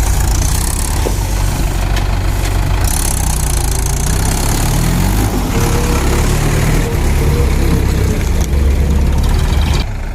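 Mahindra 585 DI tractor's four-cylinder diesel engine running loudly under load, with a heavy low rumble and a steady hiss over it; the engine pitch rises and falls a few times about halfway through.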